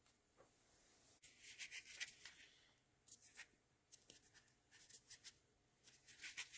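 Faint, intermittent scraping and rubbing in short clusters: hands working at a plastic relay connector while sealing it with dielectric grease.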